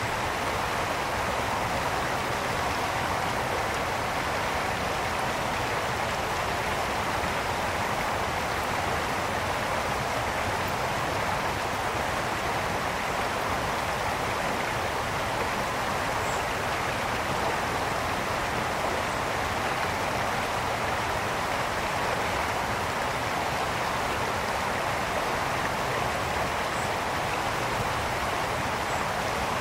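Brook water flowing and splashing over stones in a steady, unbroken rush.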